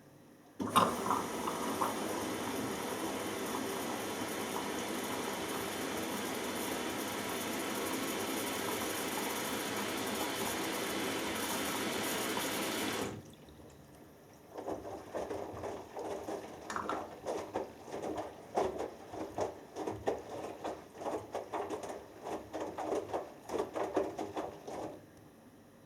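Hoover Dynamic Next washing machine filling: the water inlet valve opens with a sudden hiss, and water rushes in steadily for about twelve seconds, then cuts off. After a short pause, the drum turns and water sloshes and splashes irregularly in the drum.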